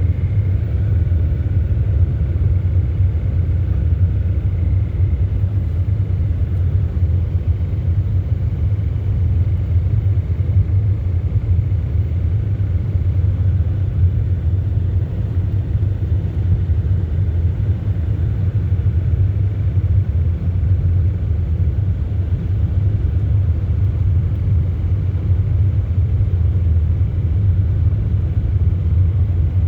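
School bus driving, a steady low rumble of engine and road noise.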